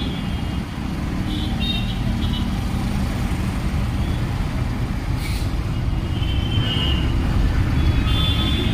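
Jammed city road traffic: vehicle engines running with a steady low rumble, and car horns honking in short bursts about a second and a half in and again near the end. A brief hiss about five seconds in.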